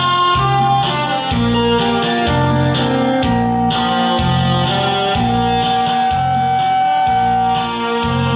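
Saxophone playing a trot melody over a recorded backing track with a steady bass beat, holding one long note through the second half.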